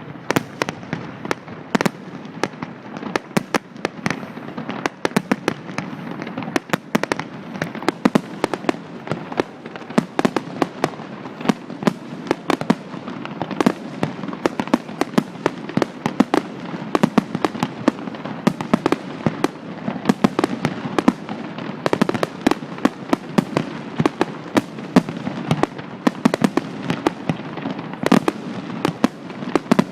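Fireworks display: a continuous rapid barrage of shell bursts and crackling reports, many bangs a second without a pause.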